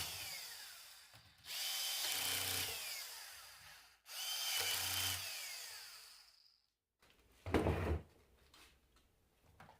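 Power drill run in three short bursts, each with a steady whine that falls away as the tool winds down after release, then a single dull thump.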